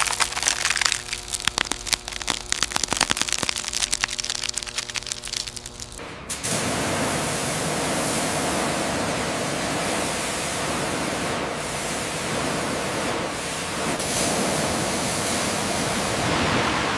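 Rapid, irregular crackling clicks over a steady hum, then an abrupt change about six seconds in to a steady spraying hiss, like a jet of water or air on a surface.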